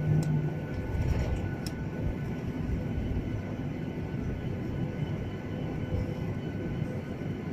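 Airliner cabin noise: a steady rumble of jet engines and airflow heard from inside the passenger cabin, with a couple of faint clicks in the first two seconds.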